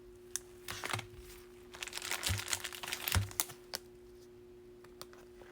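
Baseball cards and their packaging being handled: crinkling and light clicks, in short spells through the first three and a half seconds.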